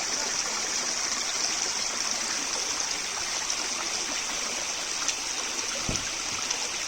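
Creek water running steadily, a constant rushing noise, with the creek still flowing days after a flash flood. A brief low thump comes about six seconds in.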